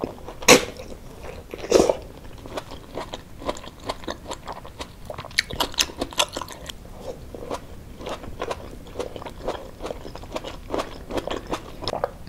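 Close-miked chewing and biting of a mouthful of rice with chili sambal: a dense run of small wet clicks and crunches, with two louder sharp crunches in the first two seconds.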